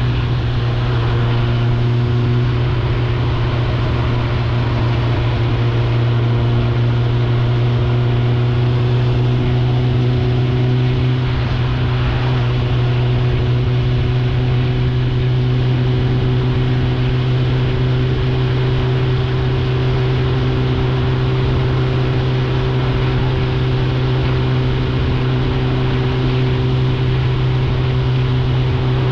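Suzuki GSF 650 Bandit's inline-four engine through an Akrapovic exhaust, running at a steady engine speed, its pitch holding constant throughout.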